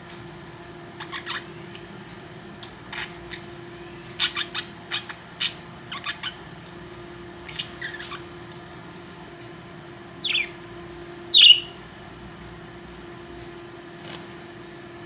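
Pet parrots chirping and calling. There are scattered short chirps, a quick run of them about four to six seconds in, and two louder squawks that slide downward near the end. A steady low hum runs underneath.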